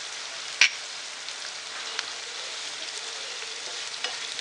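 Chopped onion, tomato and whole spices sizzling in hot oil in a frying pan, a steady hiss. A single sharp clink comes about half a second in, and a wooden spatula starts stirring the mixture near the end.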